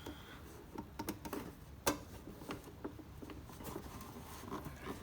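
Small scattered clicks and light scrapes of fingers working the tacho cable's plastic collar nut onto its thread on the back of the instrument cluster, with one sharper click about two seconds in.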